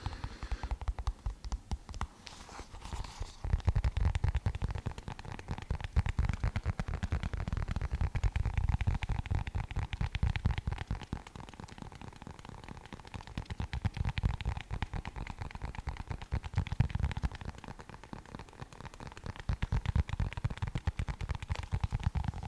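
Rapid tapping and scratching on an object close to the microphone: a dense run of small clicks with low thumps, growing louder and softer in waves.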